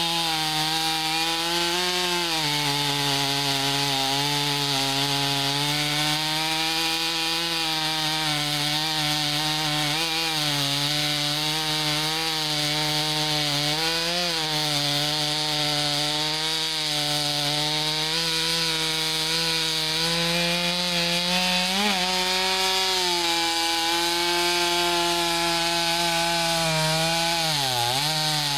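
Chainsaw engine running under load while cutting logs, its pitch sagging and recovering as the chain bites, with a deep drop in pitch near the end.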